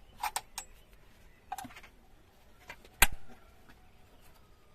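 Metal tools and engine parts clinking and knocking during hand work on a KAMAZ diesel engine: a few sharp clinks, with the loudest knock about three seconds in.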